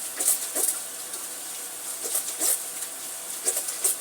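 Water running from a kitchen tap in a steady hiss, with three pairs of short sharp sounds on top.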